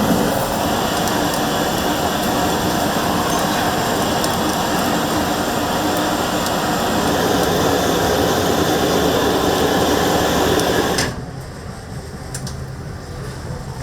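Loud, steady rushing noise that drops suddenly to a quieter background about eleven seconds in, with a few faint clicks after.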